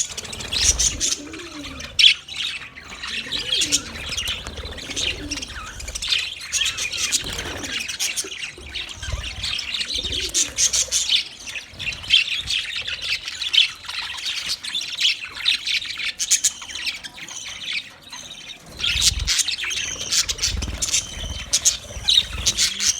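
Budgerigars chirping and chattering continuously in quick, high notes, with low bumps now and then.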